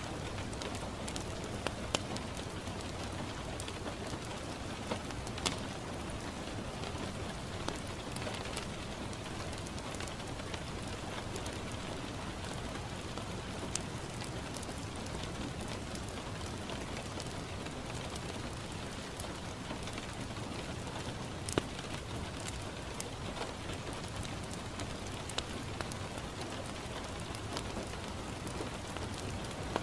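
Steady rain falling on a window, with scattered sharp pops and crackles from a wood fire in a fireplace. The loudest pop comes about two thirds of the way through.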